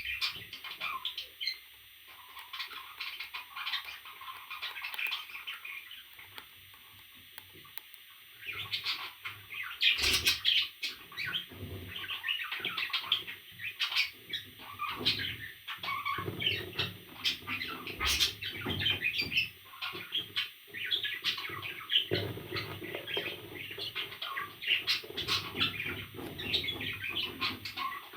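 Pet parrots chirping and squawking in many short, busy calls, sparser for the first several seconds. A couple of sharp knocks stand out about ten and eighteen seconds in.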